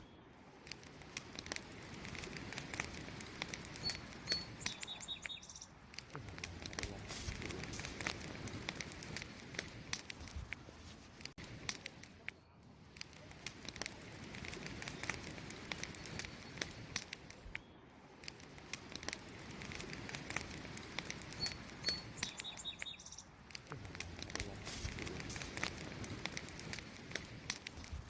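Wood campfire crackling and popping continuously, in gentle swells. A bird gives a few short high chirps about four seconds in, and again about three-quarters of the way through.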